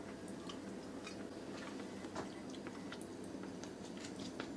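A person chewing a bite of smoked chuck roast with the mouth closed: soft, irregular wet clicks and smacks. A faint steady hum runs underneath.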